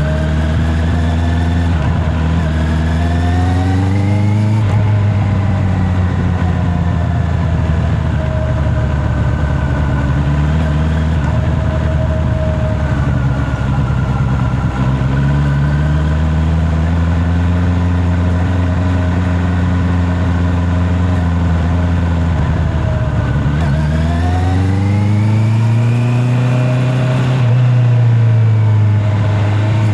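Honda CB650R inline-four motorcycle engine under way: it revs up for the first few seconds, drops sharply as a gear is shifted, then cruises with the pitch rising and falling. About three-quarters of the way through it accelerates hard again and then settles.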